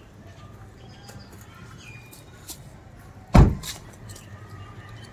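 Car door being shut: one heavy thump about three and a half seconds in, over a low steady background hum.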